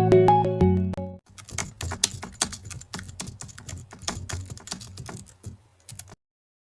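Background music stops about a second in. It is followed by about five seconds of quick, irregular clicks, typing on a keyboard, and then the sound cuts off.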